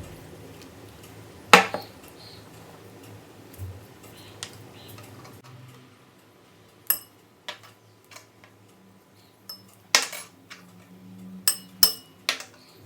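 Kitchen utensils clinking and knocking against dishes: a series of sharp separate clinks, most of them in the second half, several ringing briefly.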